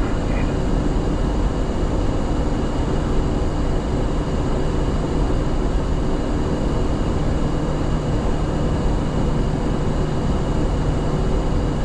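Steady flight-deck noise inside an Airbus A350-900 cockpit: an even rush of engine and airflow with a faint steady hum running through it.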